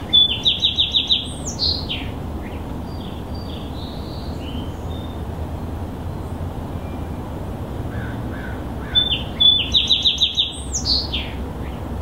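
A songbird sings two short phrases about nine seconds apart. Each is a quick run of repeated high notes ending in a falling slur, over a steady low background noise.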